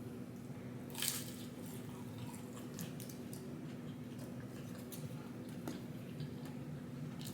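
Close-up mukbang eating sounds: wet chewing and biting of McDonald's fast food, with scattered sharp mouth clicks, the loudest about a second in. A steady low hum runs underneath.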